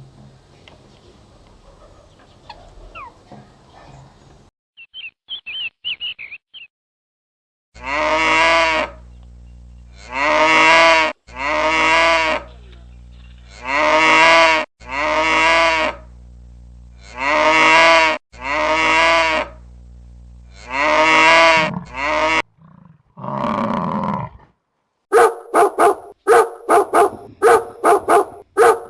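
A cow mooing over and over, about eight loud calls of a second or so each, mostly in pairs. Near the end a dog barks quickly several times.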